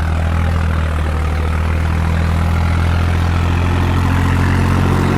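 Swaraj 963 FE tractor's three-cylinder diesel engine running steadily with a deep, even hum, growing a little louder near the end.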